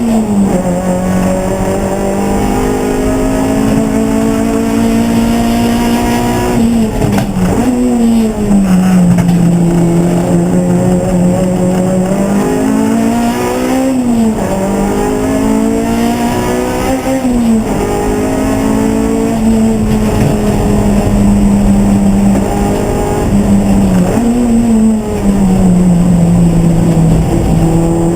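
Race car engine under load, its pitch climbing and then dropping sharply several times as it shifts gear and slows for corners.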